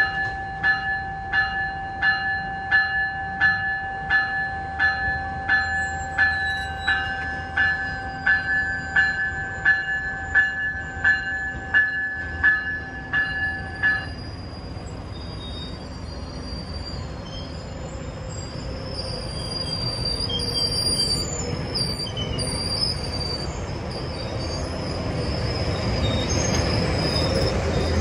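GO Transit bilevel commuter train pulling out: the train's bell rings about one and a half strikes a second and stops about halfway through. The coaches then roll past with a rumble that grows louder and high-pitched wheel squeal.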